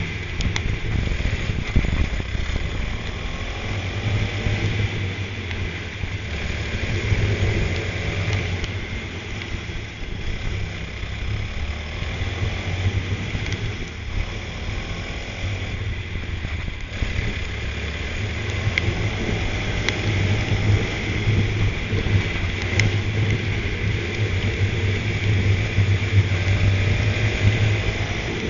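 Go-kart engine running at racing speed, its pitch rising several times as it accelerates, over a steady noise.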